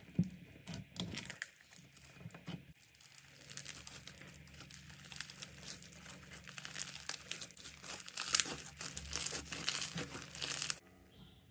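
Slime being squeezed and worked by hand, giving a dense crackling of fine clicks that builds up and then cuts off suddenly near the end.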